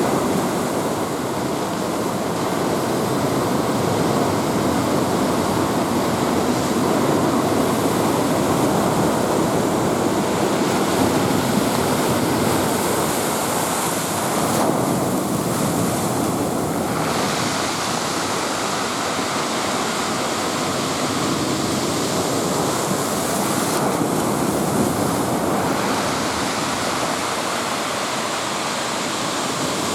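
Rough sea surf: heavy waves from a typhoon swell breaking and washing continuously in a steady roar of water.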